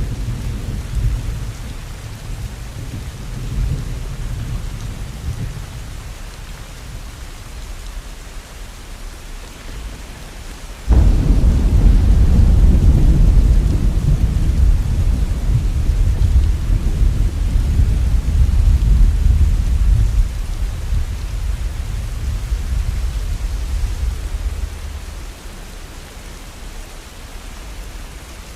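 Steady rain with rolling thunder: a low rumble dies away, then a sudden loud clap of thunder about a third of the way in rolls on for several seconds and slowly fades.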